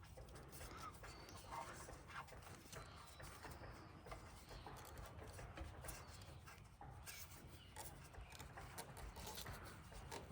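Near silence: faint low background noise with a few faint scattered ticks.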